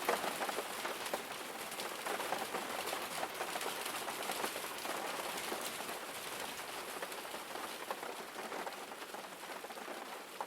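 Rain falling steadily: a dense patter of drops that slowly fades away toward the end.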